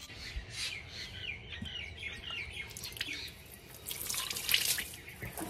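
A bird calling a quick run of short, repeated chirps, then water splashing that grows louder in the second half.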